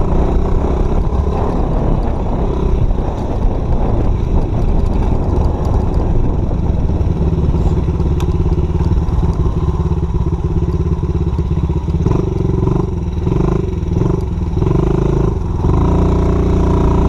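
Dirt bike engine running while riding. About two-thirds of the way through, the throttle opens and closes in several quick surges.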